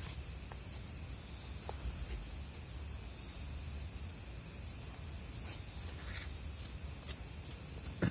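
Night-time chorus of crickets, a steady high-pitched ringing, with a few faint clicks near the end.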